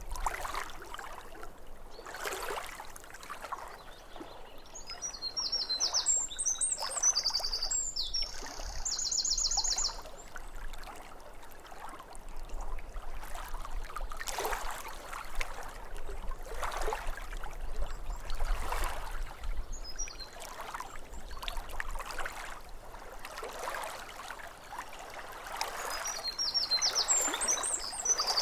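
Small waves lapping at a lakeshore, coming in soft washes every couple of seconds. A songbird twitters with quick high notes about five seconds in and again near the end.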